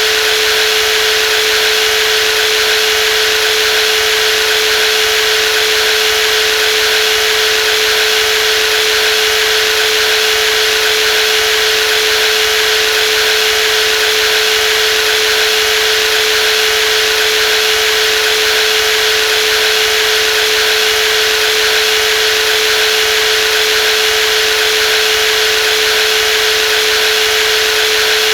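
Brushless jigsaw motor running steadily at constant speed, a steady whine with a hiss above it.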